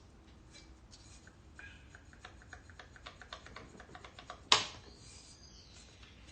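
Small metal clicks and taps of hand work on an engine's cylinder head during teardown, with one sharp metal knock about four and a half seconds in.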